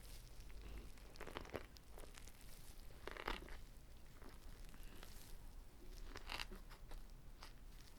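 Close-up eating sounds of a whole kimbap roll: moist chewing with small clicks, and three louder crisp crunchy bites, the loudest near the middle.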